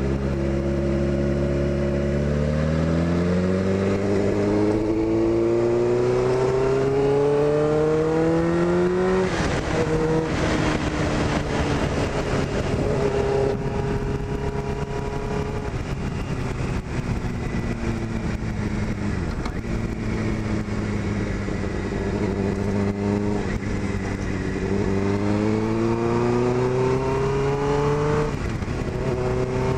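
2001 Suzuki GSX-R600's inline-four engine pulling up through the revs, with a gear change about nine seconds in. It then holds a steadier note through the middle and climbs in revs again near the end, over wind rush.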